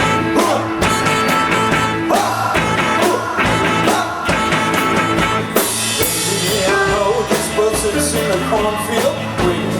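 Live rock band playing loudly: drum kit beating steadily under electric guitars.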